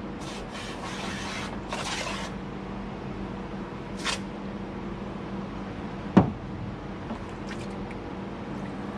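Aerosol brake cleaner sprayed in three short hissing bursts in the first couple of seconds, with one more brief hiss about four seconds in, then a single sharp knock about six seconds in.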